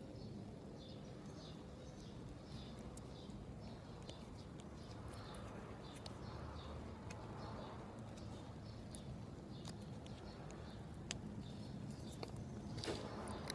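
A faint bird chirping over and over, about twice a second, over a low steady hum, with a few sharp clicks near the end.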